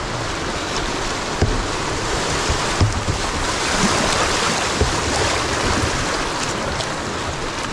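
Rushing whitewater of a river rapid, heard from a canoe as a steady rush of water, with a few brief low thumps.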